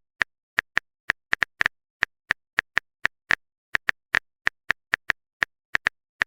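Phone keyboard typing sound effect: a run of short, identical clicks at an uneven pace, about four a second.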